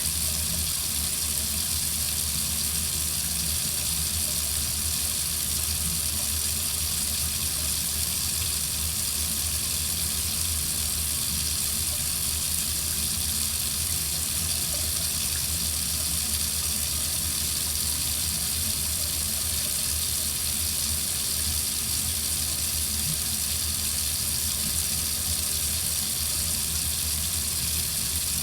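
Water running steadily from a faucet into a sink, an even, unchanging hiss.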